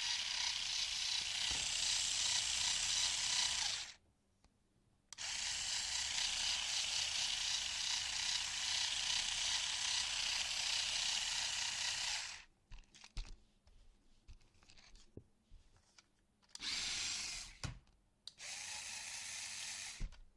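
RC drift car's motor and four-wheel-drive drivetrain whirring at a high pitch as the throttle is pressed and released: a run of about four seconds, a brief stop, a longer run of about seven seconds, then scattered clicks and two short bursts near the end.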